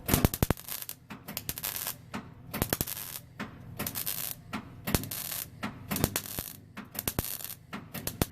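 Welder arcing on a thin steel exhaust pipe in a run of short crackling bursts with brief pauses between them, filling a burnt-through hole in the pipe.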